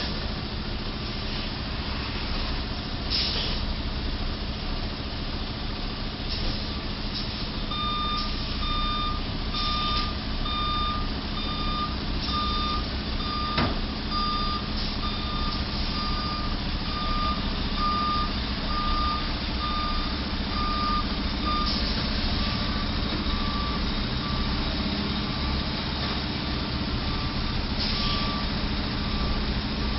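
Truck's reversing alarm beeping about once a second over a steady idling engine, the beeps fading somewhat in the last third. A single sharp knock sounds near the middle.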